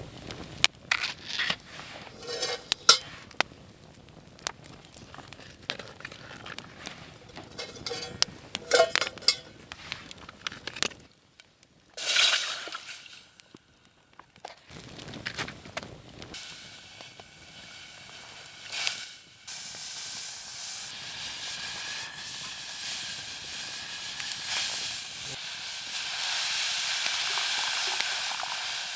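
Campfire crackling with sharp pops, then after a break a steady sizzling hiss that slowly grows louder.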